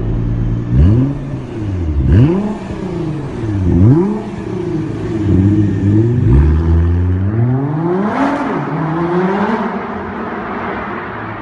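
Bentley Continental's twin-turbo twelve-cylinder engine, breathing through a Stage 3 modified aftermarket exhaust, revved in place from idle: three sharp blips, a quick run of shorter blips, then one longer rev about eight seconds in, settling back to idle.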